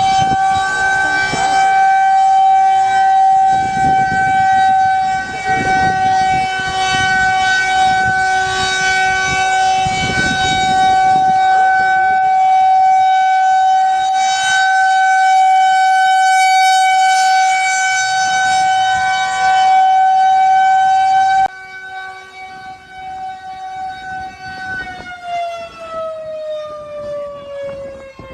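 Outdoor tornado warning siren sounding one loud, steady tone. About 21 seconds in it drops suddenly quieter, and a few seconds later its pitch starts falling as the siren winds down.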